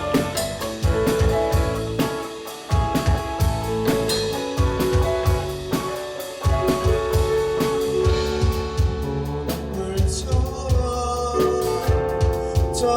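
Band music with a drum-kit beat under held, sustained instrument notes.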